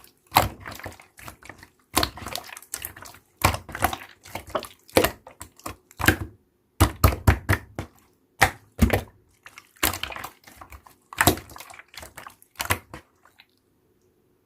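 Slime being squeezed and pressed by hand: quick runs of wet clicks and pops in clusters with short pauses, stopping about a second before the end.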